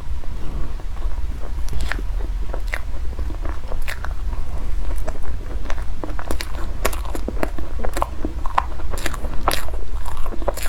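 Close-miked eating: a person biting and chewing food with many sharp crunches and crackles, coming thicker in the second half.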